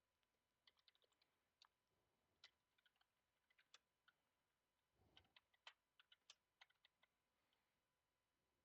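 Faint typing on a computer keyboard: irregular key clicks, coming in quick runs with a denser flurry about five seconds in.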